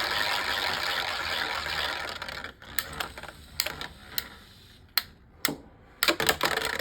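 Two Beyblade Micros spinning tops battling in a small plastic stadium: a dense rattling scrape for the first two and a half seconds as they spin and grind against each other, then scattered sharp clicks and clacks as they knock together.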